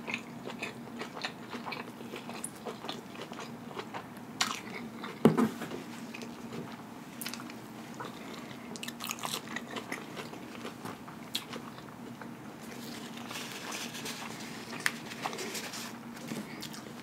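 A person chewing a mouthful of Wendy's quadruple cheeseburger close to the microphone, with many small mouth clicks and crunches. There is one louder thump about five seconds in.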